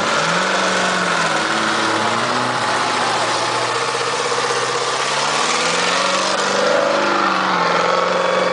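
Several race car engines running and revving on a dirt track, their pitches rising and falling as the cars accelerate, lift off and pass by.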